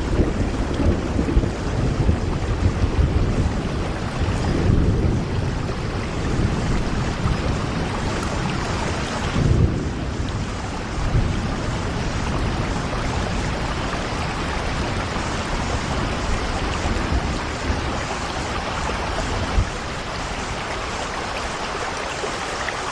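Steady heavy rain falling on a window, an even hiss of drops, with deep rumbling swells in the first few seconds and again about nine seconds in.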